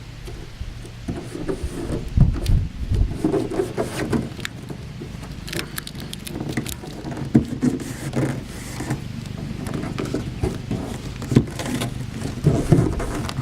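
Irregular rustling, taps and knocks as material is pressed and smoothed flat across the inside of a boat, over a steady low hum.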